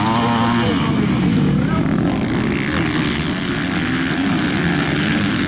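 Motocross motorcycle engines racing, revving up and down in a continuous loud drone.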